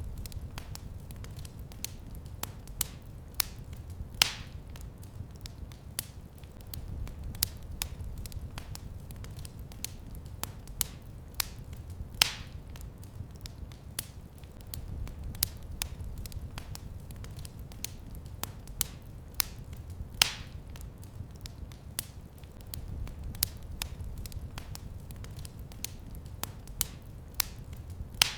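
Wood fire burning in a fireplace: a steady low rumble of flames with frequent sharp crackles, and a few louder pops now and then.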